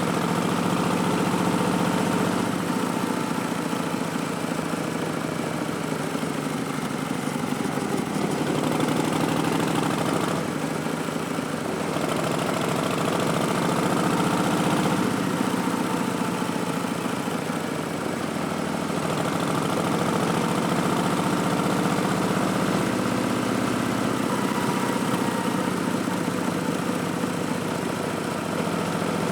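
A 2019 Harley-Davidson Street Bob's Milwaukee-Eight 107 V-twin running through Vance & Hines Twin Slash slip-on mufflers on the move, its note rising and falling with the throttle.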